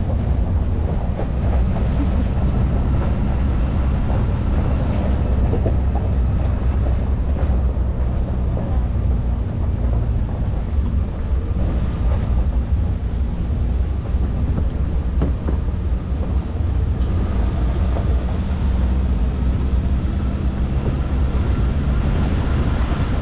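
Motor vehicle driving: a steady low engine drone with road rumble and rattle.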